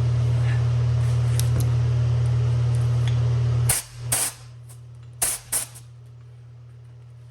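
An air compressor runs with a steady low hum and cuts off suddenly about halfway through. Four short, sharp blasts of compressed air from an air gun follow, used to force a seized piston out of a brake caliper's bore.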